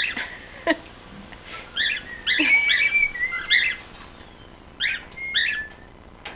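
Cockatiel chirping and whistling in short bursts, including a couple of held whistled notes about two and a half seconds in.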